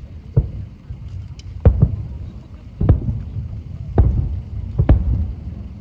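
Aerial firework shells bursting over a lake with deep booms, about seven in under six seconds, some coming in close pairs, over a continuous low rumble of echoes rolling back.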